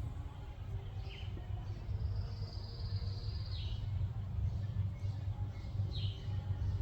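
Small birds calling over a steady low rumble: a short falling chirp about a second in, a long thin high whistle of about two seconds ending in a downward slide, and another falling chirp near the end. The calls are high and thin, not a mourning dove's low coo.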